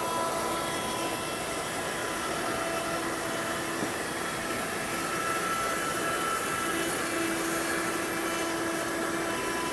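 Oliver CNC router running a carving job, its spindle giving a steady whine over an even hiss. A low hum grows stronger about seven seconds in.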